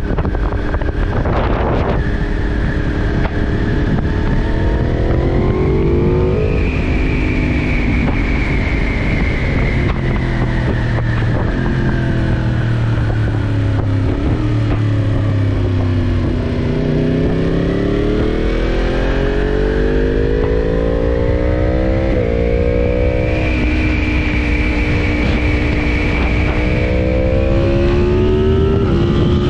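2023 Yamaha MT-10's crossplane inline-four running through a Leo Vince mid pipe and the factory muffler on a flashed ECU, its revs climbing and falling several times as the bike accelerates and slows, with a steady rush of noise underneath.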